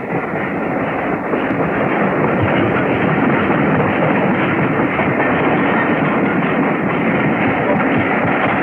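Steam-hauled train running, a steady rushing noise that swells over the first couple of seconds and then holds.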